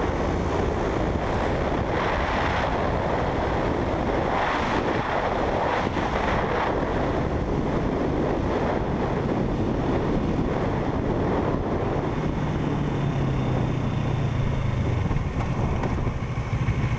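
Motorcycle engine running while riding at speed, mostly buried under heavy wind rushing over the microphone. A steady low engine hum comes through more clearly in the last few seconds.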